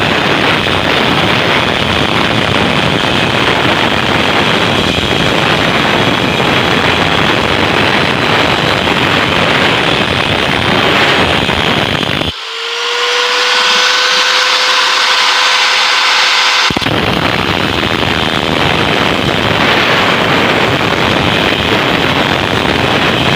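Angle grinder cutting through the steel shell of a refrigerator compressor, a loud grinding noise. About 12 seconds in it comes off the metal and spins free with a steady whine for about four seconds, then cuts into the shell again.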